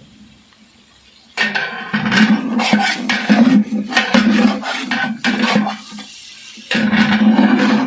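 A metal ladle scraping and knocking against a large cooking pan as chicken is stirred while it fries, in quick irregular strokes. The stirring starts about a second and a half in, pauses briefly near the six-second mark, then resumes.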